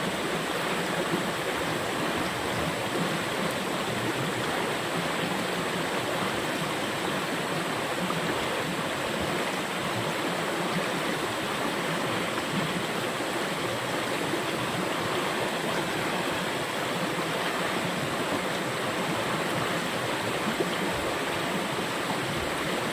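Creek water rushing steadily over rocky rapids.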